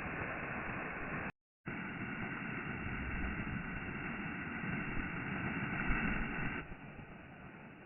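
Wind buffeting the microphone as a steady rushing noise, with a brief dropout to silence about a second and a half in, and dropping noticeably quieter near the end.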